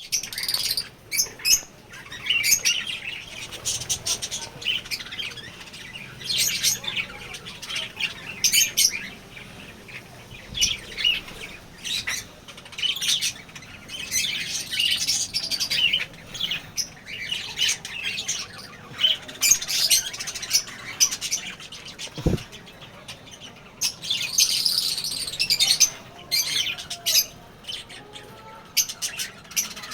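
A colony of lovebirds chattering, with shrill chirps and squawks overlapping throughout and one brief low thump about two-thirds of the way through.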